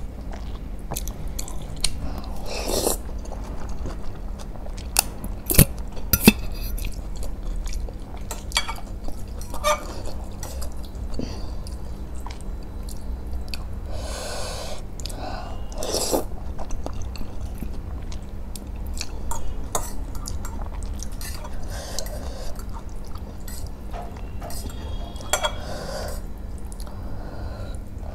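Close-miked chewing and mouth sounds of someone eating masala instant noodles, with scattered sharp clicks of a metal fork against a glass bowl.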